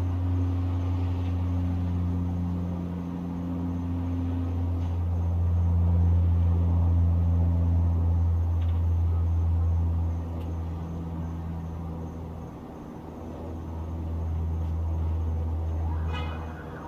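Low rumble of distant town traffic with a faint engine hum, swelling and fading in loudness. Near the end a siren begins to rise.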